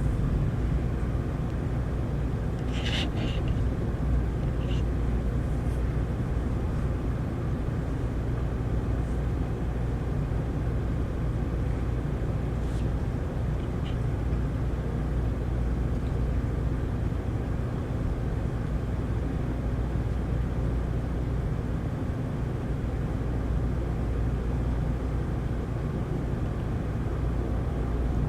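Heavy rain falling steadily, a constant rushing noise weighted toward the low end, with a few faint ticks about three to five seconds in.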